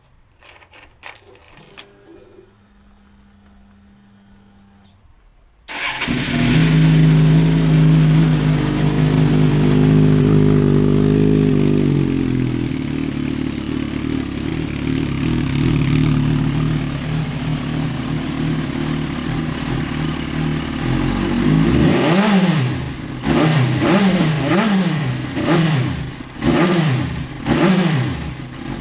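Suzuki GSR600 inline-four motorcycle engine with an aftermarket Roads Italia carbon exhaust starting up about six seconds in after a few clicks and a short hum. It runs at a fast idle that drops to a lower idle about six seconds later, then is blipped through several quick revs near the end.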